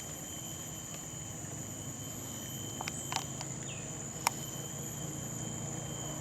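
Rainforest insects droning steadily at several constant high pitches, with a few sharp clicks about halfway through.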